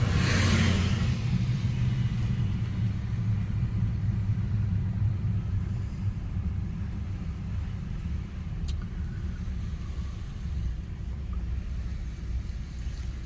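Car being driven, a steady low road and engine rumble heard from inside the cabin, with a brief rushing hiss in the first second or so.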